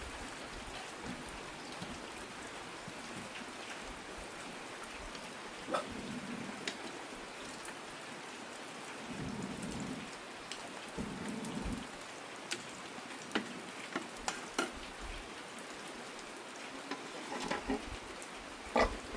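Heavy rain falling steadily, with scattered sharp taps of drops striking a surface.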